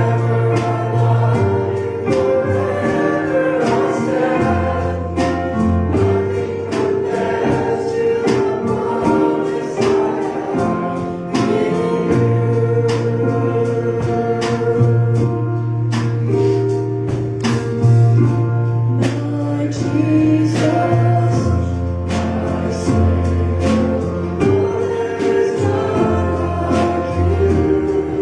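Congregational worship music: a choir and congregation singing a gospel-style hymn with a band, steady bass notes and a regular beat.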